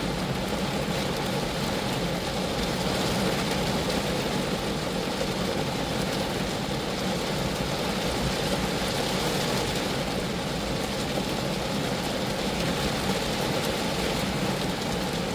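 Steady rain falling on a Geo Metro, an even, continuous patter of drops on the car's body.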